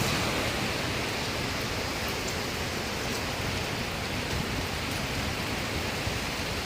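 Steady hiss of heavy rain in hurricane wind, an even wash of noise with no let-up.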